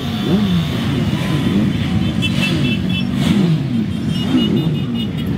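Many motorcycle engines running and revving together as a mass of motorbikes rides past, their pitches rising and falling over one another. Twice, a rapid string of high beeps sounds over them.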